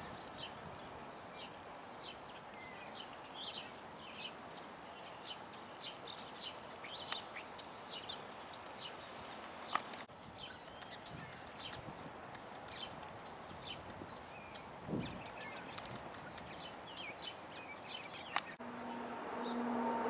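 Wild birds calling outdoors: many short, high chips and twitters scattered over a faint background hiss. About a second and a half before the end a louder, low, steady hum comes in.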